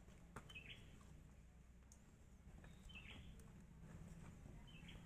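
Near silence with a faint, short bird chirp repeating about every two seconds, and a couple of soft clicks.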